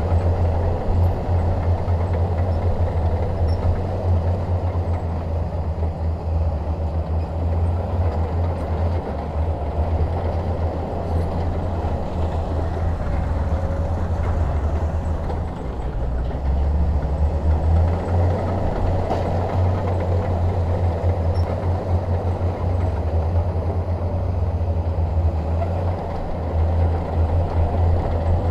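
Crawler bulldozer's diesel engine working with a steady low drone. It eases slightly about halfway through, then runs a little louder after that.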